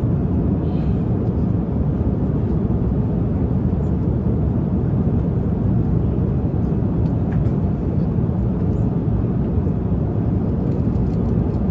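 Steady in-flight cabin noise of an airliner, the low, even rush of engines and airflow, with a few faint clicks.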